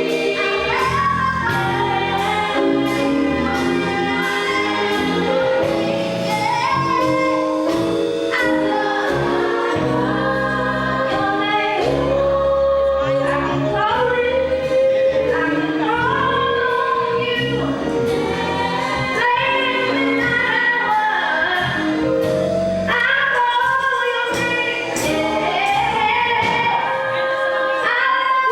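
Gospel choir singing over live instrumental accompaniment with a bass line and a steady beat.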